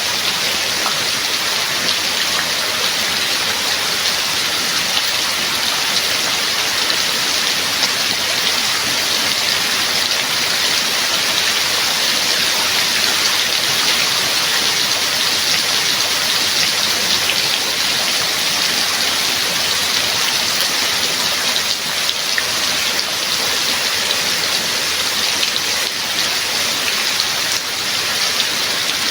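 Steady heavy rain: a dense, even hiss of falling drops.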